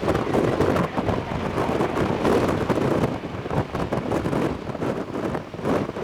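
Strong gusting wind buffeting the microphone: a low rumble that swells and dips every second or so.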